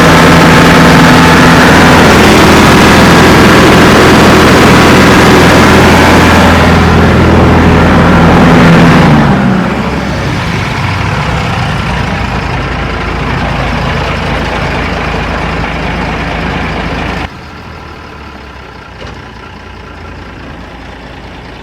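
Mercedes-Benz 1317 tipper truck's turbocharged straight-six diesel engine idling steadily. It is loud at first, grows quieter about nine seconds in, and drops suddenly quieter again near the end.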